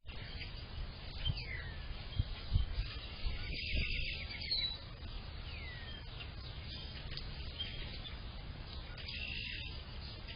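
Wild songbirds singing: a downslurred whistle repeated every few seconds, and two buzzy trilled phrases, over a low steady rumble of wind.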